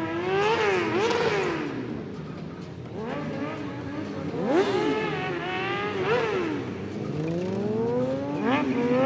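Motorcycle engines revving repeatedly, their pitch rising and falling over and over, with more than one engine going at once.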